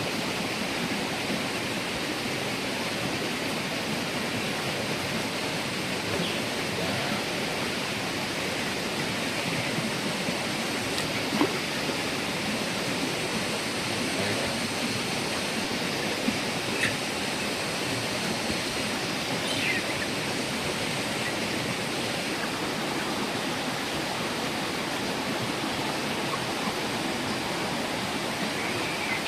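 Steady rushing of running water, with a few faint clicks now and then.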